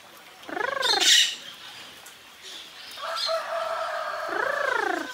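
Yellow-crowned amazon parrot calling: a rising-and-falling call about half a second in that breaks into a harsh squawk, then a long held level note from about three seconds in that ends in another rising-and-falling call.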